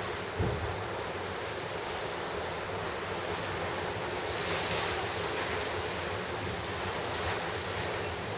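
Pacific Ocean surf crashing and washing ashore, a steady rush of waves that swells a little near the middle, with wind on the microphone. A brief low thump about half a second in.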